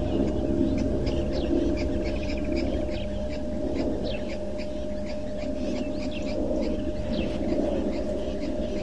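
Small birds chirping rapidly around a waterhole, short quick downward-sliding chirps several a second, over a steady low hum.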